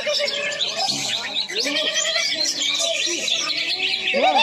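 Many caged songbirds singing at once, a dense stream of fast chirps and trills, the featured greater green leafbird (cucak hijau) among them. Lower calling voices of the crowd run underneath and get louder near the end.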